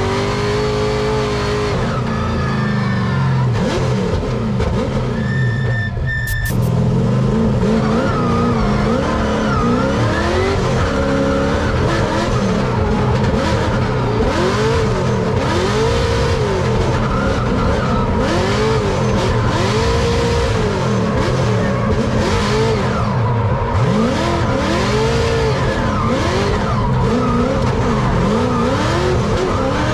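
Drift car's engine revving up and down over and over as it is driven through drifts, with tyres screeching.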